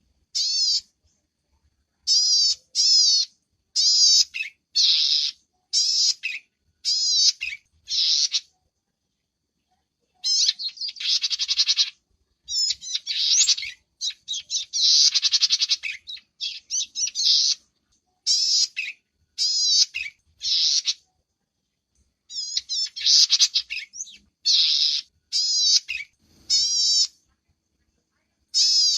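Small field birds calling from a lure recording: short high chirping calls repeated in quick groups, mixed with longer buzzy trills, with brief silences between the groups.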